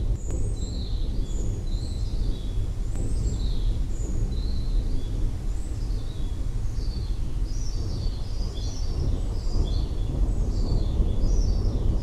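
Birds chirping in short, high calls, more of them in the second half, over a steady low rumble.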